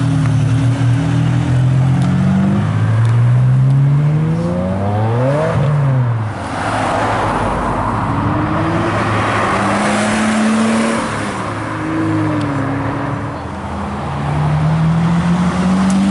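Supercar engines accelerating hard past the roadside. First a front-engined Ferrari V12 revs up and pulls away, its pitch climbing in steps. A stretch of rushing noise follows, then a Lamborghini Murciélago's V12 rises in pitch near the end.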